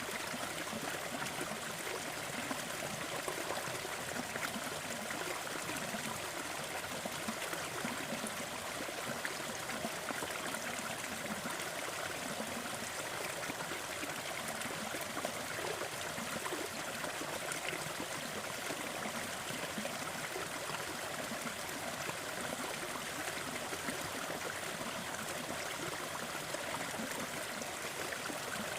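A small forest waterfall running steadily, an even rush of falling and splashing water.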